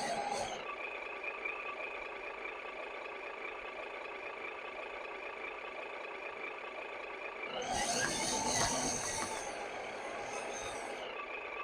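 Radio-controlled scale model of a Hyundai Xcient 8x4 truck running, with a steady high-pitched whine throughout. It gets louder and noisier for a couple of seconds about eight seconds in.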